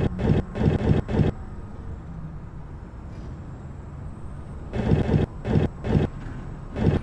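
Girbau HS4012 commercial washing machine washing: wet laundry and water sloshing in the turning drum in rhythmic surges about three a second. The surges stop a little over a second in, leaving a low steady hum for about three and a half seconds while the drum rests, then start again near the end.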